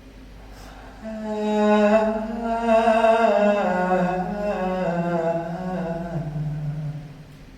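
A low voice chanting one long, unbroken note that slides slowly downward in pitch over about six seconds and then fades out, part of the dance's soundtrack.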